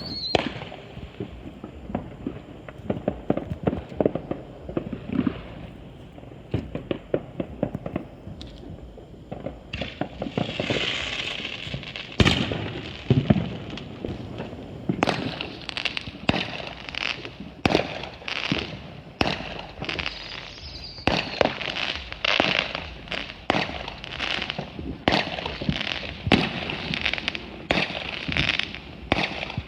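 Consumer fireworks going off: a steady run of sharp bangs and pops, with crackling that thickens into a dense barrage about halfway through.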